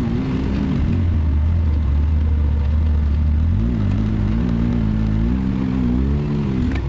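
Can-Am Maverick X3 side-by-side's turbocharged three-cylinder engine running at low speed. It holds a steady note for about the first half, then revs up and down repeatedly.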